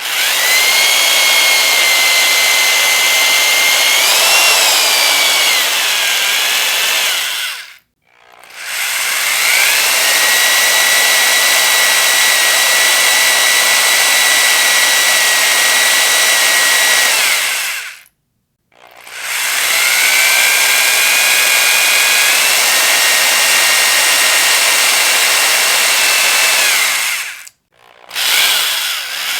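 Electric power drill motor running at full speed with a high, steady whine, in three long runs of about eight to nine seconds. Each run spins up quickly and stops suddenly, with a brief silence between. The pitch wavers up and down about four seconds in, and a short burst comes near the end.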